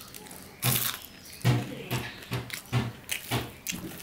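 Close-up chewing of a fried pumpkin-flower fritter (kumro fuler bora), about six loud chews roughly half a second apart, starting about half a second in.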